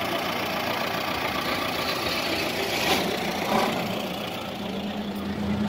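A car engine idling steadily, with a low steady hum joining near the end.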